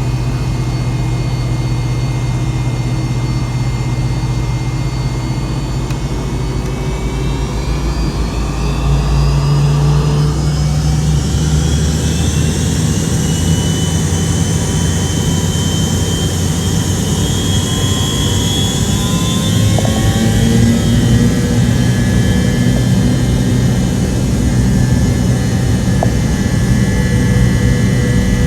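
Cabin sound of a McDonnell Douglas MD-88's rear-mounted Pratt & Whitney JT8D turbofans, heard from a rear seat. The engines run steadily at first, then spool up about ten seconds in with a rising whine and louder, deeper rumble, and hold at high thrust.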